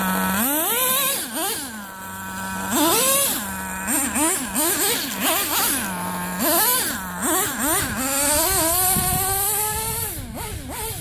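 Dynamite Mach 19 nitro engine in a Traxxas T-Maxx RC truck, idling between a series of quick throttle blips, each a short rise and fall in pitch. Near the end comes a longer run with a slowly rising pitch as the truck drives. The engine is running with an exhaust leak from broken zip ties, which takes away some of its performance.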